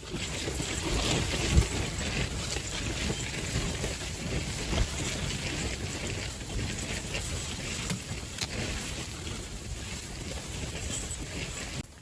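Strong gusting wind rushing over the microphone, a steady roar of noise with brief louder buffets.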